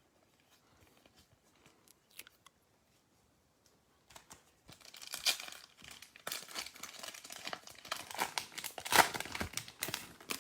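Wrapper of a 2019-20 Optic basketball card pack being torn open and crinkled. A dense run of crackling starts about four seconds in and lasts to near the end; before that there are only faint small clicks.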